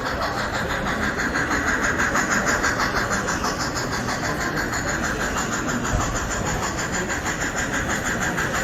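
Engine sound of a sound-equipped model locomotive running on a layout, a steady, rapid, even chugging over hall noise.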